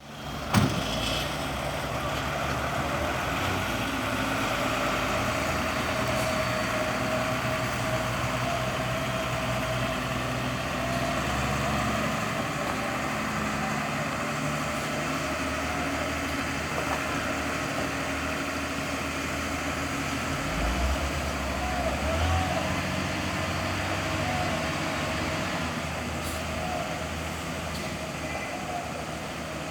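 Diesel dump truck engine running steadily, with a sharp knock about half a second in and a brief change in engine note around two-thirds of the way through.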